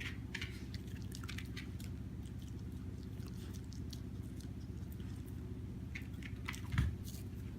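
Shiba Inu puppy's mouth smacking in irregular wet clicks, in two clusters, at the start and again near the end, with a single low thump about seven seconds in, over a steady low room hum.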